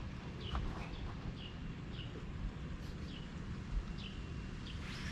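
A bird repeating short, high, downward-sliding chirps about once a second over a steady low rumble.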